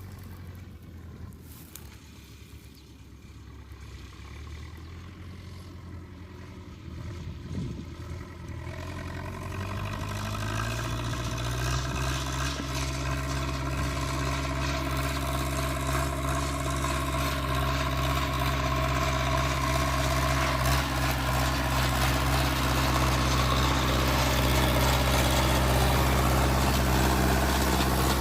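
Zetor 6340 tractor's four-cylinder diesel engine running low and quiet, then rising in pitch and growing louder about ten seconds in, before settling into a steady run.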